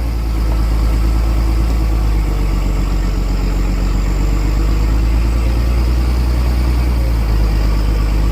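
Heavy off-road truck engine running steadily at low revs, a deep continuous rumble.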